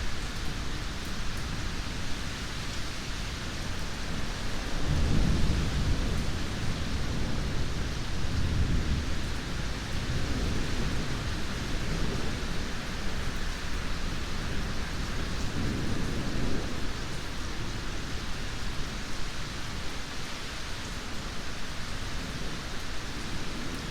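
Steady rain hissing, with rolling thunder: a deep rumble rises suddenly about five seconds in and rolls on for several seconds, with weaker rumbles later.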